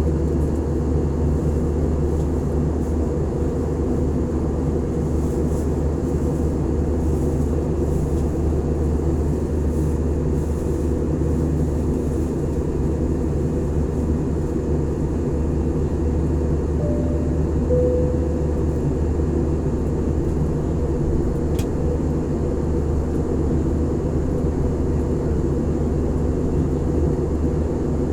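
Passenger airliner cabin noise: the steady, unbroken drone of the engines and airflow heard from inside the cabin, with one faint click a little past the middle.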